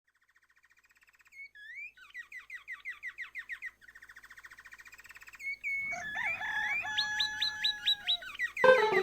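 Birdsong, likely a nature-sound recording: small birds chirping in rapid repeated trills, starting about a second in. More birds join with whistled notes in the second half.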